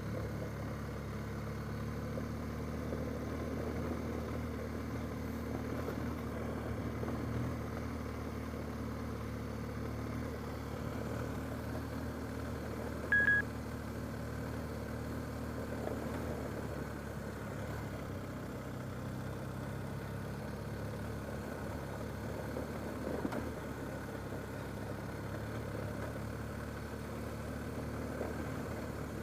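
Car interior noise while driving on a rough dirt road: the engine runs steadily under tyre and road rumble, and the low engine drone drops away about halfway through. A short, high electronic beep sounds once, about 13 seconds in.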